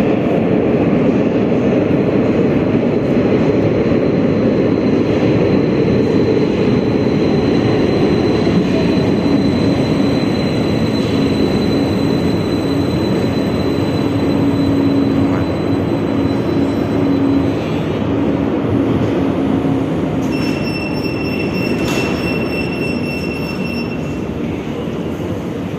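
Metro train running between stations: a steady loud rumble of wheels on rails with a thin high whine that fades out about two-thirds of the way through. Brief high electronic tones sound near the end.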